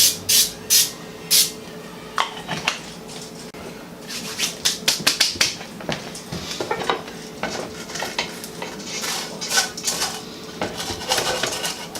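Spatula scraping and knocking against a cooking pot and pan, working sticky marshmallow-and-cereal mixture, in runs of quick repeated strokes: a regular series in the first second or so, and more clusters of rapid scrapes from about four seconds in. A steady low hum sits underneath.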